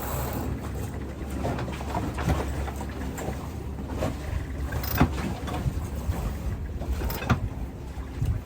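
Sailboat under way, coming through a tack: a steady low rumble of wind and water with irregular knocks and clatters from the boat. The sharpest knocks come about five seconds in and again near the end.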